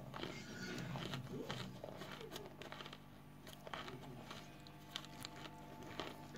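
A mouthful of frozen cornstarch chunks being chewed: soft, irregular crunching and crackling clicks.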